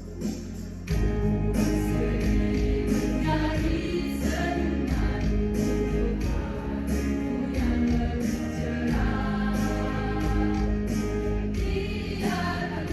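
A choir singing a pop song with instrumental accompaniment and a strong bass line. The full ensemble comes in about a second in, after a quieter opening.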